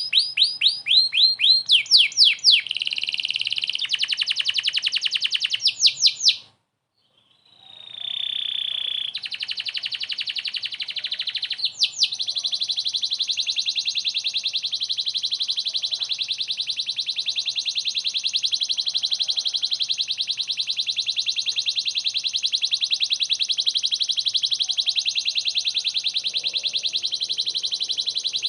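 Domestic canary in full song: fast strings of repeated rising notes, cutting out briefly about seven seconds in, then a long, even, very rapid trill.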